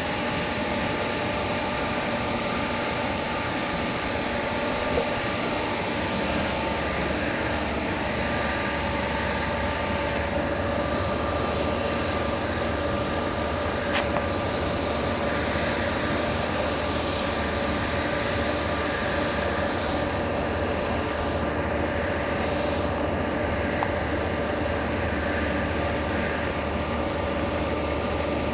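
Large vertical turning lathe running steadily: a continuous machine rumble with steady hums and a high whine that fades near the end, and a sharp click about 5 seconds in and again about 14 seconds in.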